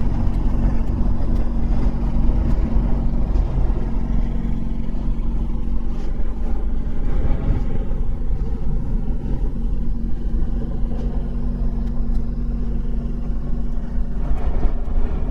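Yamaha R6 motorcycle engine running at low, steady revs as it is ridden slowly, over a heavy low rumble of wind on the microphone.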